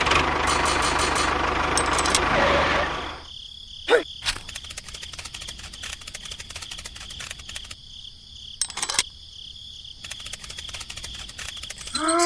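A small engine runs for about the first three seconds and then cuts off. After that a steady high-pitched hum remains, with scattered clicks and a couple of short chirps.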